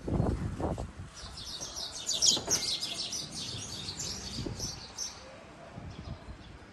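Small birds twittering: a dense run of quick, high chirps starts about a second in and fades out near the end. Low thuds are heard at the start.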